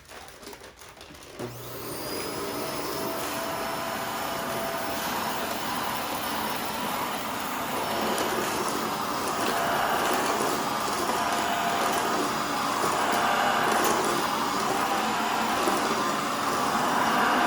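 Shark Rotator NV520 upright vacuum switched on about a second and a half in: its motor winds up with a short rising whine, then runs steadily, sucking up fine baking soda from a hard floor, and grows a little louder from about eight seconds in. Its cyclone and filters are clogged with the powder, so it is barely picking anything up.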